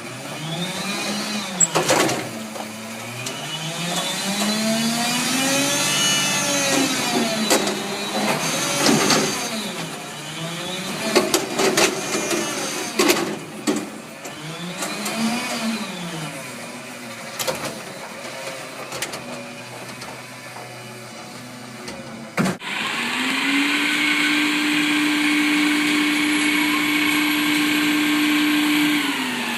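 Front-loader garbage truck's diesel engine revving up and down over and over as its hydraulics work the lift arms, with sharp metal bangs and clanks. Near the end the engine is held at a steady high speed.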